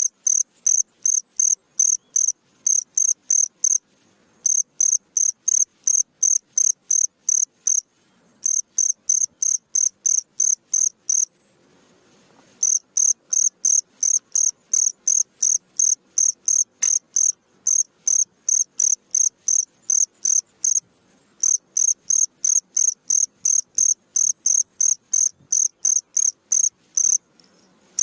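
Cricket chirping: short, high, evenly spaced chirps at about three a second. They come in runs broken by brief pauses every few seconds, with a longer pause about twelve seconds in.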